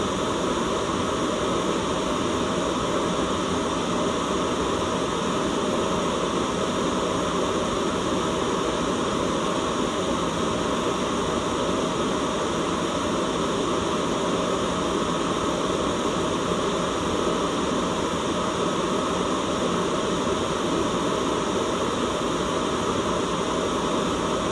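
Steady white noise: an unbroken, even rushing hiss that never changes, weighted toward the lower middle rather than thin and sharp.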